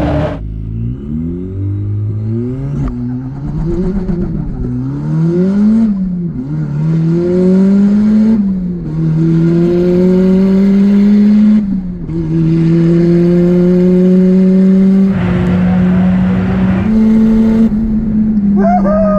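Turbocharged Mazda Miata's four-cylinder engine at full throttle on a quarter-mile drag run. Its pitch climbs through each gear and drops back at each of several upshifts, then holds high near the end, at the top of fourth gear.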